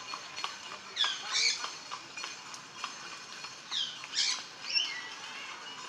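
Birds calling: short, squawky calls that sweep in pitch, coming in small clusters about a second in and again around four seconds.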